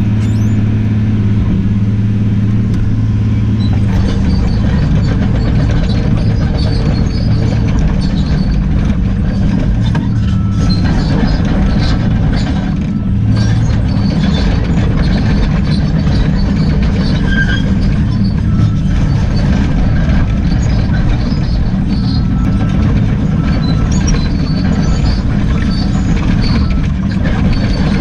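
Excavator's diesel engine running steadily under load, with scattered knocks and scrapes as it works rock.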